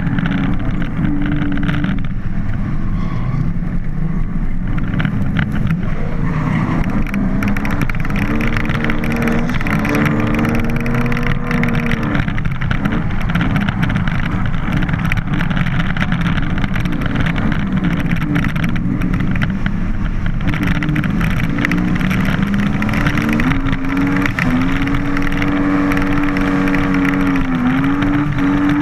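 A BMW drift car's engine being driven hard, its revs rising and falling again and again and held fairly steady for a few seconds near the end, over a steady rushing noise.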